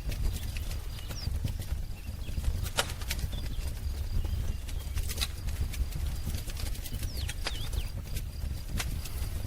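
Wood fire crackling: irregular sharp pops and snaps over a steady low rumble, with a few faint, short bird chirps.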